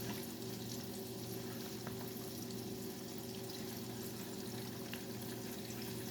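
Battered salmon deep-frying in hot oil: a steady, faint sizzle with a few small crackles, over a steady low hum.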